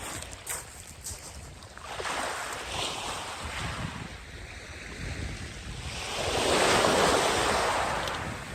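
Surf washing on the beach, with one larger wave swelling and breaking about six to eight seconds in. Wind rumbles on the microphone throughout.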